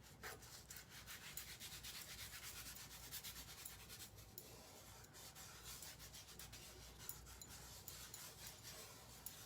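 Faint, quick repeated rubbing strokes of a hand smoothing an adhesive silk-screen transfer down onto a board.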